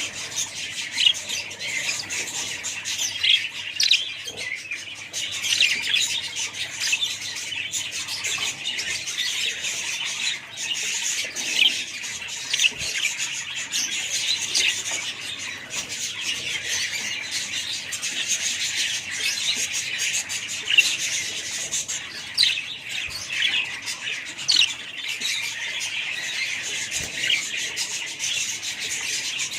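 A crowd of small pet parrots, such as budgies or lovebirds, chattering nonstop with many overlapping chirps and sharp squawks.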